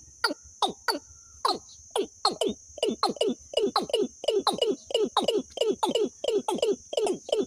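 A bird's lure call played on a loop: a fast series of short notes, each sliding sharply downward in pitch, about three to four a second and quickening, over a steady high hiss.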